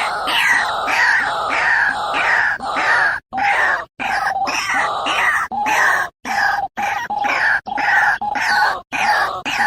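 White-breasted waterhen (ruak-ruak) calls played as a bird-trapping lure: a fast, unbroken series of harsh, repeated notes. It drops out suddenly into silence several times, for a fraction of a second each time.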